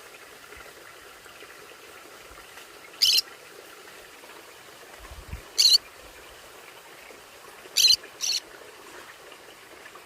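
Conure giving short, sharp calls: one about three seconds in, one about halfway, and a quick pair near the end, over a faint steady hiss.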